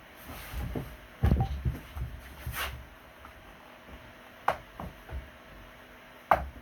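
Irregular knocks and sharp clicks, about half a dozen, from things being handled. The loudest comes a little over a second in and another near the end.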